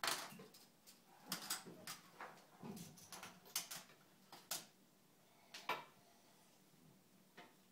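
Magformers magnetic plastic tiles clicking and clacking as they are handled and snapped together: irregular sharp clicks, thinning out after about six seconds.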